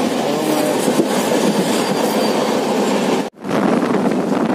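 Running noise of a moving passenger train, heard from inside the coach: a steady rumble and rattle of the carriage on the track. About three seconds in the sound drops out for an instant and comes back at the same level.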